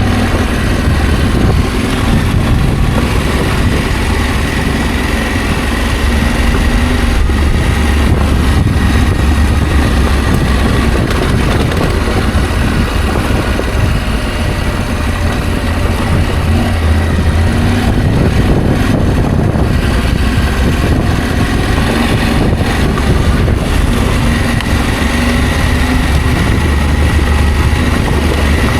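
Adventure motorcycle engine running steadily while riding, with a constant rushing noise over it.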